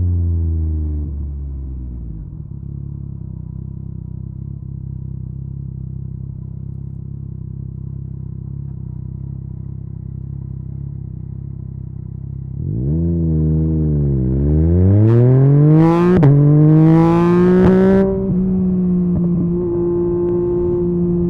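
Yamaha MT-09 inline-three through an Akrapovic carbon exhaust: revs fall away to a steady idle. Then it pulls off, the pitch rising, dipping at a gear change and rising again with a few sharp cracks, before settling to a steady cruise near the end.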